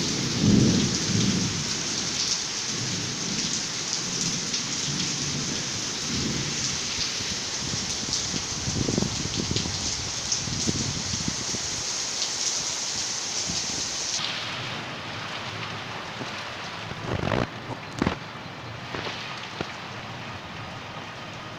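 Heavy rain falling steadily, a dense hiss, with low uneven rumbling in the first few seconds. About two-thirds of the way through the rain hiss turns fainter and duller, and two short knocks come near the end.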